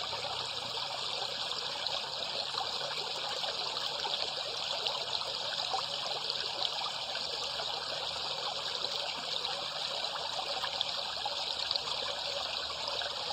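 Water trickling and splashing steadily, a continuous babble of running water.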